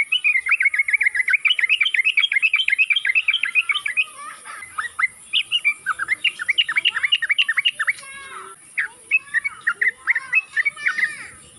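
Yellow-vented bulbul (trucukan) singing loudly in quick, jumbled notes: a dense unbroken run for about the first four seconds, then shorter phrases with brief gaps.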